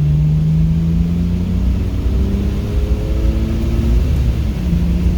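Car engine pulling under acceleration on a race track, its note climbing slowly, over a steady low road and wind rumble.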